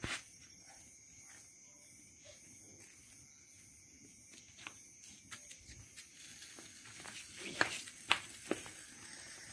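Crickets chirping steadily in the night, with scattered sharp crackles and pops starting about six seconds in.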